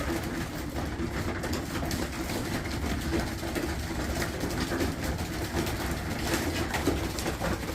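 Pigeons pecking at a feeder of grain mix and pellets: a dense, steady patter of small clicks over a low, steady rumble.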